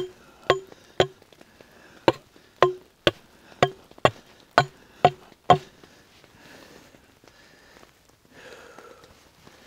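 Wood being struck with a tool: about eleven sharp, ringing knocks at roughly two a second, stopping a little over halfway through, followed by faint rustling.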